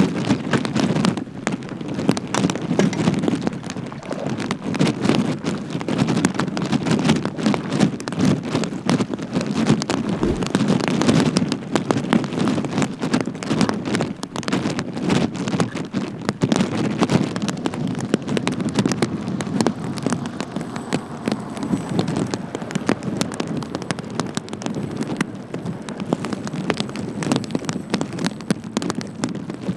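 Rain pattering hard, a dense irregular spatter of drop hits over a steady low rush of wind and water.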